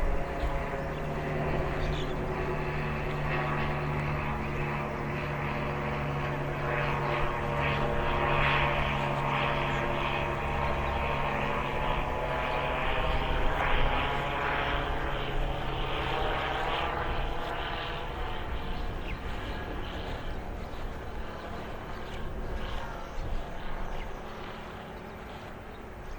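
A propeller aircraft passing overhead: a steady engine drone made of many tones, loudest around the middle and fading away over the last few seconds.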